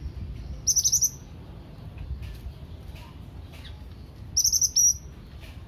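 A cucak ranting (cendolan) songbird giving two short bursts of rapid, high chirping notes, about a second in and again about four and a half seconds in, with fainter single chirps between.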